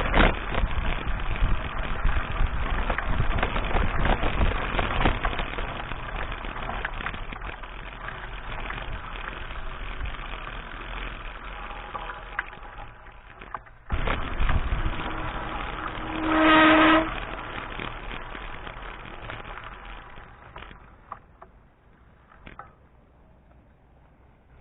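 Mountain bike ridden over a rough dirt track: continuous rattling and clatter with knocks and wind rumble on the action camera. About 16 seconds in, a loud steady-pitched tone lasts under a second, and near the end the clatter dies away to a much quieter level.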